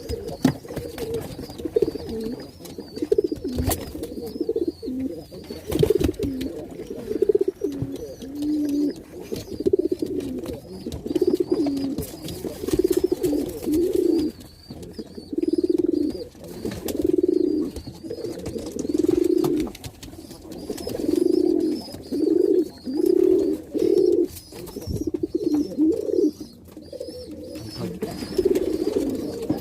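Domestic pigeon cooing over and over, low coos about every second with a few sharp clicks between, typical of a cock pigeon driving and courting a hen.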